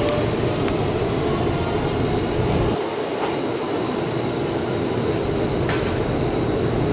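Tobu limited express electric train pulling out of the station, a steady rumble of motors and wheels on the rails; the deepest part of the rumble falls away about three seconds in.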